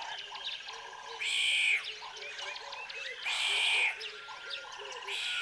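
Nature soundscape of frogs croaking in a steady chorus of short repeated calls, with small birds chirping over it. Two loud, buzzy calls about half a second long stand out, one a little over a second in and one just past three seconds.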